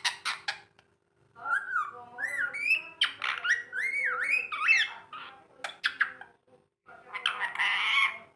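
Rose-ringed (ringneck) parakeet vocalising: a few sharp clicks, then a run of whistled calls that sweep up and down in pitch, and a harsh squawk near the end.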